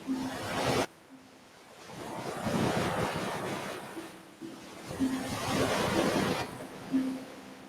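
Ocean waves washing onto a beach, surging and receding: the wash cuts off abruptly about a second in, then builds into two swells. A few brief low tones sound faintly over it.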